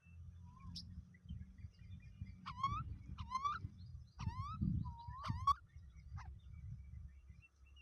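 Myna giving four short rising calls, about a second apart, over a low rumble, with a couple of sharp clicks.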